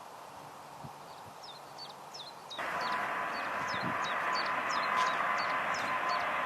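A small bird chirping, short high calls about two or three a second. At about two and a half seconds a steady jet aircraft noise, a rushing roar with a whining tone, comes in abruptly and becomes the loudest sound.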